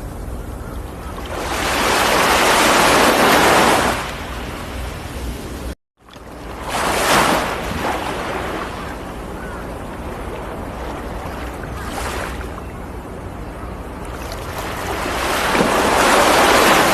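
Ocean waves breaking and washing up the shore in slow swells of surf hiss: a big one about two seconds in, another around seven seconds, a smaller one near twelve, and another near the end. A steady low rumble runs underneath, and the sound drops out for an instant just before six seconds.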